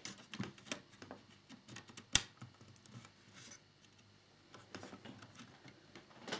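Small clicks and taps of plastic model parts and a tiny screwdriver being handled while a fairing panel is fitted and screwed on, with one sharp click about two seconds in.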